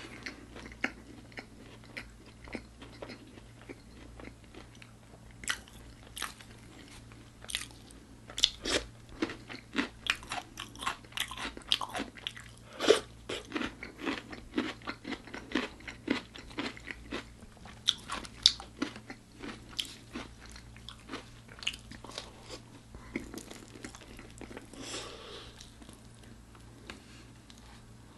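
Close-miked crunching and chewing of crispy-coated bone-in fried chicken: many sharp irregular crunches, thickest through the middle and thinning out near the end, over a faint steady low hum.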